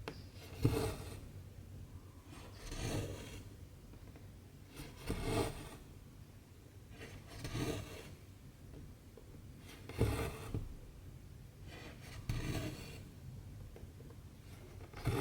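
Cotton embroidery thread being pulled through 14-count cross-stitch fabric, a short rasping swish at each stitch, about every two and a half seconds.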